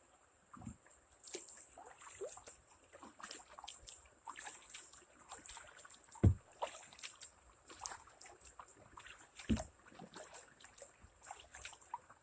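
Kayak on the water: paddle strokes with small splashes and drips, and two dull thumps against the kayak about six and nine and a half seconds in.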